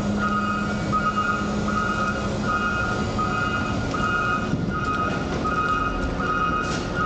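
Reversing alarm beeping steadily, roughly three beeps every two seconds, over the running of heavy diesel machinery at a waste transfer station. A low engine hum fades out about two and a half seconds in.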